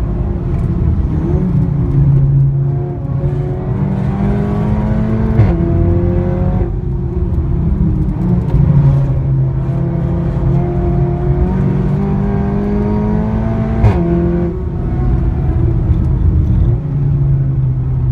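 Seat Leon Cupra engine and loud exhaust under hard acceleration, the pitch climbing steadily and dropping sharply at two gear changes, about five seconds in and again about fourteen seconds in, each with a short crack.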